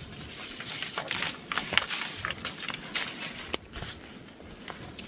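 Dry leaves and twigs crackling and rustling under hands and body movement, with irregular sharp little clicks and snaps.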